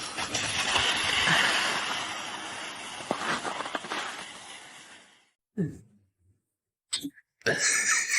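Splashing water noise that fades away over about five seconds, followed by a few short separate sounds near the end.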